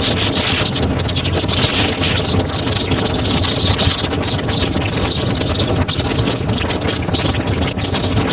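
Motorcycle running steadily while being ridden, its engine mixed with road and wind noise.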